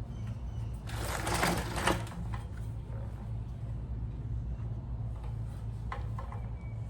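Hands working on small-engine parts: a short rustling, scraping burst about a second in and a few light clicks near the end, over a steady low hum.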